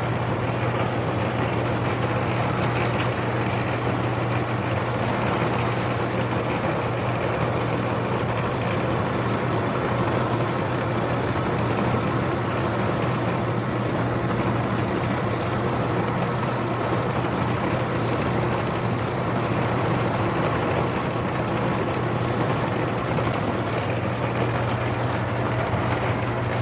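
Small metal lathe running steadily under a constant motor hum while the tool takes a facing cut across the end of a large-diameter steel workpiece.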